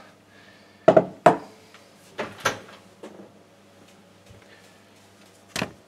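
Kitchen things being handled on a countertop: a few sharp knocks and clunks, two close together about a second in, two more around two and a half seconds and one near the end, as a mixing bowl is set down beside the pie.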